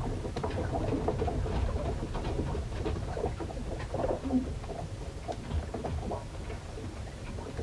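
Storm heard aboard a wooden ship: a steady low rumble of wind and water, with scattered short knocks and creaks.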